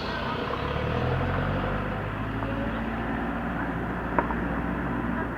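A vehicle engine running steadily, swelling a little about a second in, with one sharp click about four seconds in.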